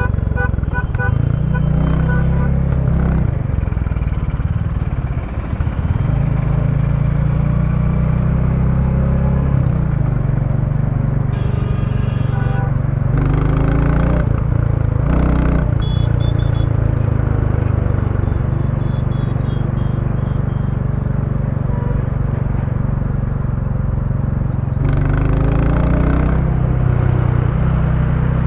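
A 2023 Royal Enfield Bullet 350's single-cylinder engine running under way through its stock exhaust, with a steady low exhaust note. The pitch rises with throttle a couple of seconds in and again near the end. A few short, sharper sounds come about halfway through.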